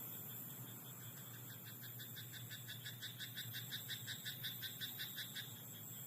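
A frog in a rice paddy calling: a rapid train of croaks, about five or six a second, starting about a second in, swelling and stopping after some four seconds. A steady low hum and hiss lie underneath.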